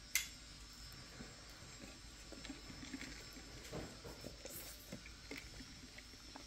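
Faint chewing and mouth sounds of a child eating, with one sharp click just after the start.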